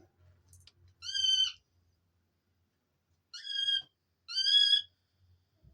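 Pet dove giving three short, high-pitched squeaky calls, the last two close together, while sparring for space with another dove.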